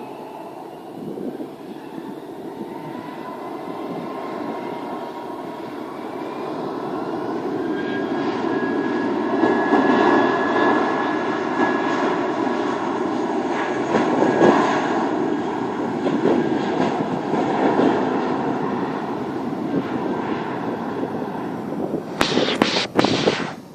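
An aeroplane taking off: steady engine noise with a faint rising whine builds up over several seconds, then holds loud as the plane passes. Near the end a few short, loud bursts of noise cut across it.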